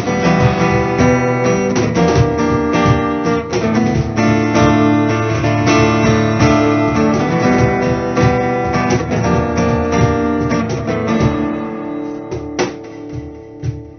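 Acoustic guitar playing an instrumental passage between sung verses, with strummed and picked chords; it grows quieter over the last couple of seconds.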